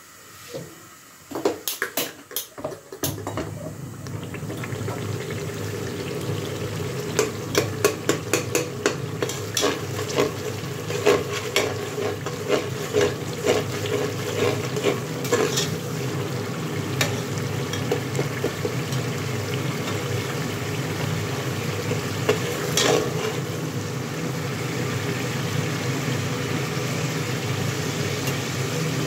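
Onions and tomatoes sizzling in oil in an aluminium pressure cooker, stirred with a metal slotted spoon that scrapes and clicks against the pot. The sizzle sets in about three seconds in and holds steady, and the clicks come thickest in the first half.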